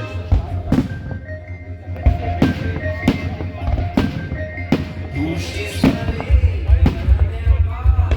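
Fireworks going off: about ten sharp bangs at uneven intervals of half a second to a second and a half, over music.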